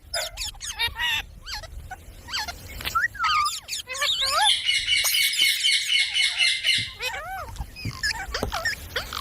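Parrot calling: a string of short whistled chirps that swoop up and down, with a dense, rapid, harsh chatter in the middle lasting about two and a half seconds.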